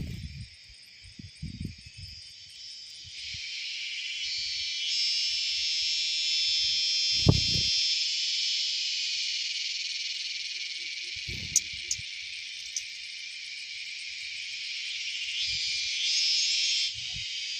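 Steady, high insect chorus that grows louder a few seconds in and drops off suddenly near the end, with a few short low thumps.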